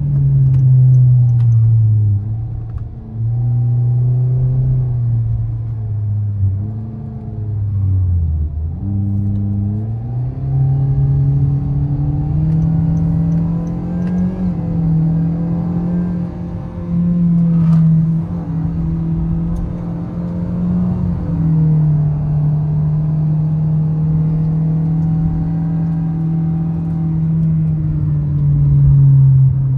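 Toyota Vios engine running under sustained load. Its pitch sags slowly, dips sharply about eight seconds in, climbs back up, then holds high and steady for the rest of the stretch.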